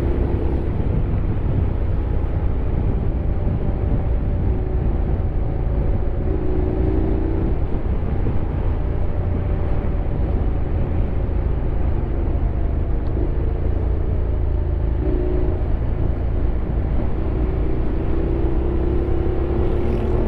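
Honda X-ADV 750's parallel-twin engine running while the scooter is ridden, its pitch drifting slowly up and down with speed, under a steady low rush of wind noise.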